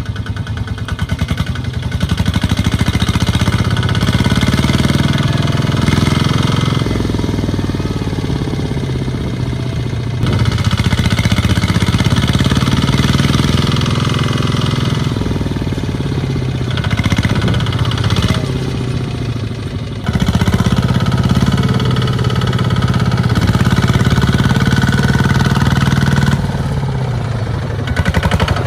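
Mini tractor engine running hard under a heavy load, its pitch rising and falling as it revs up and eases off several times.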